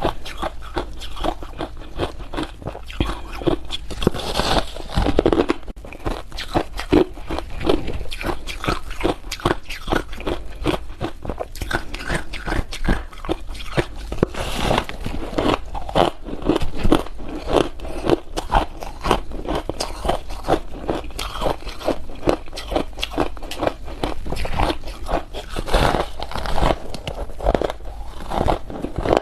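Hard ice being bitten and chewed: a continuous run of sharp, dense crunches and cracks.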